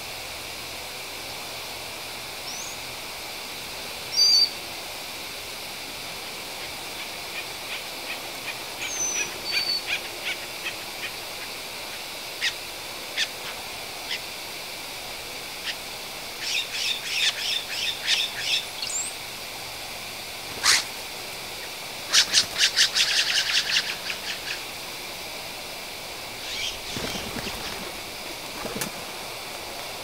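Wild birds chirping and calling, with several bursts of rapid chattering, the loudest about two-thirds of the way through, over a steady background hiss.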